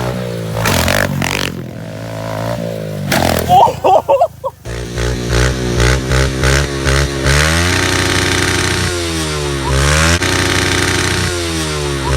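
Small 110cc four-stroke pit bike engines running and revving. The sound changes abruptly about a third of the way in. After that a steady engine note falls in pitch and climbs back up twice as the throttle is eased off and opened again.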